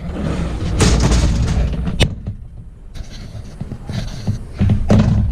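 Retrofitted Haas VF-3 CNC vertical mill running a drilling program, with uneven machine noise as the spindle and axes move. A sharp click comes about two seconds in.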